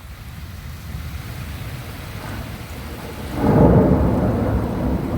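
Steady rain, then about three seconds in a loud, low rumble of thunder rolls in from a nearby lightning strike and keeps going.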